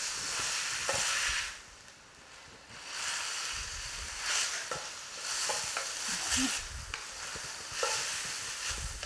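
Sliced onions sizzling as they fry in hot oil in a stainless steel pot, stirred with a spatula that scrapes and knocks against the pan. The sizzle drops away for about a second near the start, then returns.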